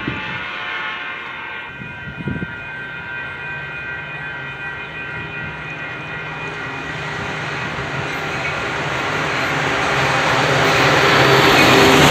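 Metra commuter train with a diesel locomotive approaching and passing close by. A steady low engine hum and the rush of wheels on rail grow louder until the locomotive goes by near the end. A steady, several-toned distant sound fades out about two seconds in.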